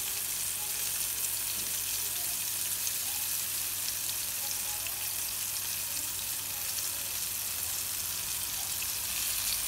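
Flour-coated tomato slices frying in hot oil in a frying pan: a steady sizzle with small crackles scattered through it.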